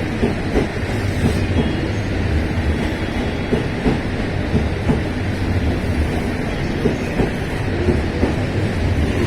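Train moving along the track, with a steady rumble and wheels clattering over rail joints.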